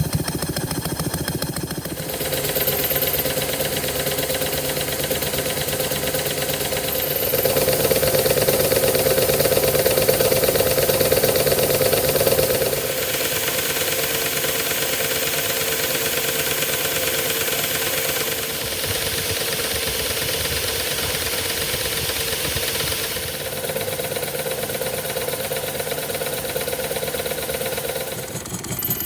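Miniature engine running steadily, its note and loudness shifting several times, louder for a stretch in the middle.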